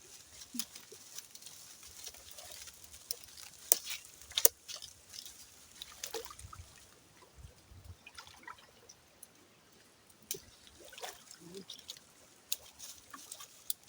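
Faint splashing and trickling of water as a person wades in a shallow stream pool, with scattered sharp clicks and knocks, the loudest two about four seconds in.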